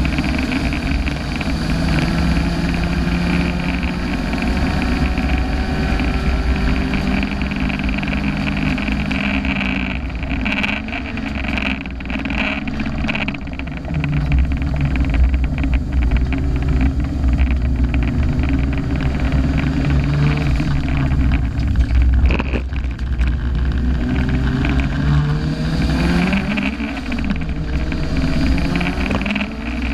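Turbocharged car engine, about 300 hp on 1 bar of boost, driven hard on track. Its pitch repeatedly climbs and then drops as it runs up through the revs and changes gear, with a sudden break about two-thirds of the way through.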